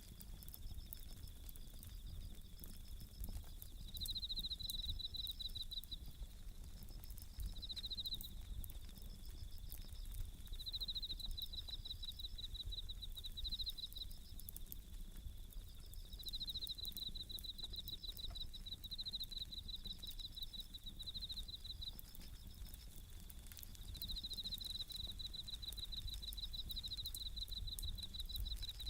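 Japanese bell crickets (suzumushi) singing in repeated high, rapidly pulsing trills that come in bouts of a second or two, over a wood campfire crackling with scattered sharp pops and a low rumble.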